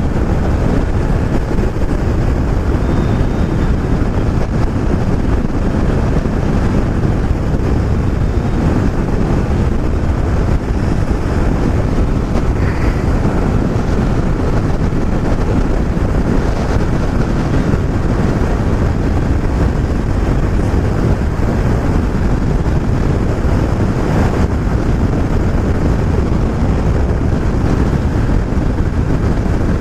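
Steady, loud wind rush over the microphone of a motorcycle riding at speed, with the motorcycle's running mostly buried beneath it.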